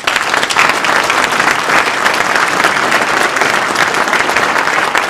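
Audience applauding loudly: a steady wash of many hands clapping.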